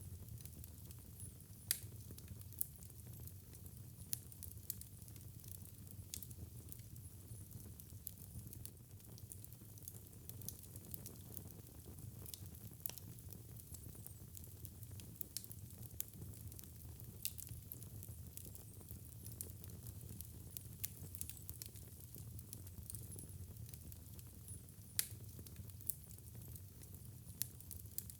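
Fireplace fire burning and crackling: a soft, steady low rumble with irregular small crackles and sharp pops, the loudest pops about two seconds in and near the end.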